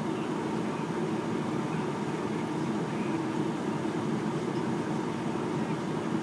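Truck engine running steadily, a low even rumble that does not rise or fall.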